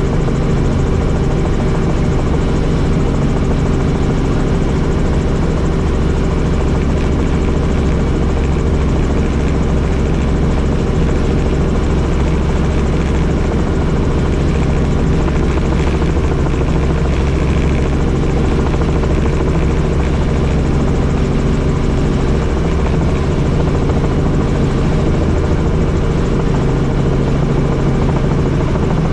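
Helicopter in flight, its rotor and engine running with a steady, loud drone.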